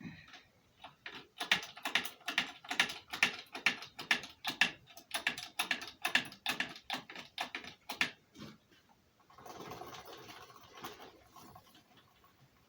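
A fast series of sharp mechanical clicks, about three or four a second, for several seconds, followed by a short scraping noise.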